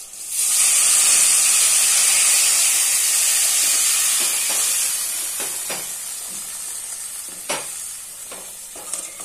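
Tamarind extract poured into hot oil and fried green chillies in an aluminium kadai, sizzling loudly at once and slowly dying down. A metal ladle stirring knocks and scrapes against the pan several times in the second half.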